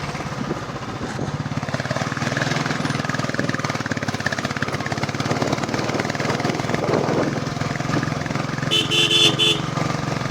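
Royal Enfield Bullet Classic 350's single-cylinder engine running steadily while riding, with a quick run of short horn beeps near the end.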